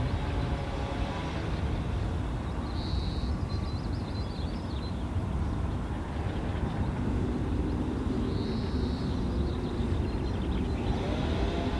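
Steady low rumble with faint shifting tones, like distant vehicle noise. Over it, two short high bird calls with a quick trill, about three seconds in and again about eight and a half seconds in.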